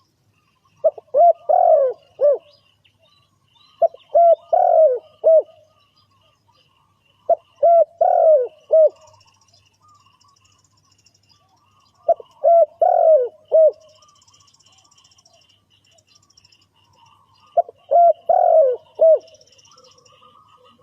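Spotted dove cooing: five repeated calls, each a quick run of a few low cooing notes, a few seconds apart, with faint chirping of other small birds between them.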